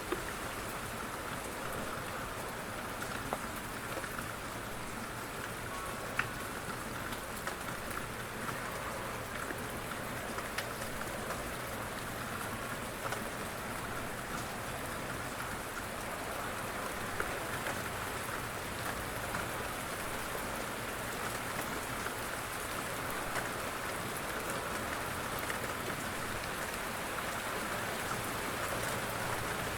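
Light rain falling steadily on a surface, an even hiss dotted with many small drop ticks.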